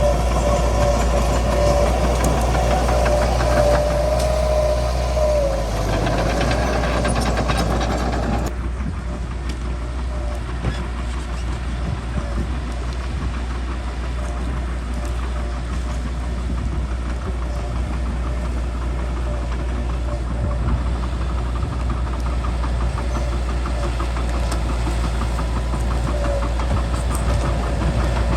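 Bulldozer's diesel engine running steadily, with a high whine over the first five seconds. About eight seconds in the sound turns duller and a little quieter.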